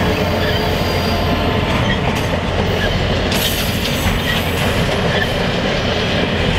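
Train cars rolling past close by at speed: a loud, steady rumble of steel wheels on rail.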